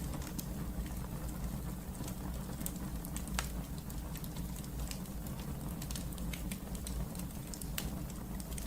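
Wood fire burning in a fireplace: a steady low rumble of flame with scattered crackles and sharp pops, the loudest pops about three and a half seconds in and near the end.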